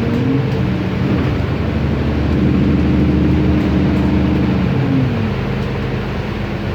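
Cummins ISB Euro 6 turbo diesel engine of an Otokar Kent LF city bus, heard while the bus is driving. The engine note climbs just after the start, holds steady, then drops back about five seconds in, over steady road noise.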